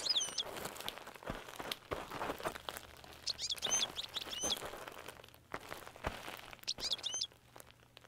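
A small bird chirping in short quick phrases three times, over scattered soft knocks and scuffs like footsteps.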